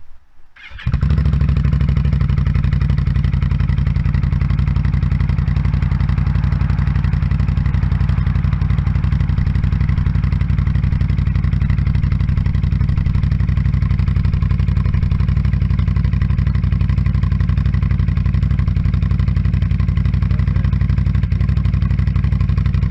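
Can-Am Outlander ATV's V-twin engine idling steadily through an aftermarket exhaust, heard at the tailpipe during an idle sound-level test. It cuts in suddenly about a second in and then holds an even idle.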